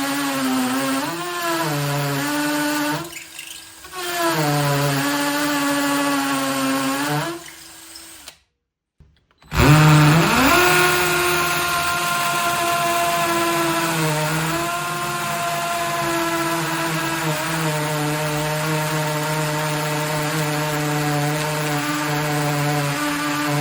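Parkside PSBSA 20-Li C3 20 V cordless 3-in-1 impact driver's motor running in bursts: it dips and stops about 3 s in, runs again, cuts off near 8 s, then after a short silence spins up with a rising whine and runs steadily to the end.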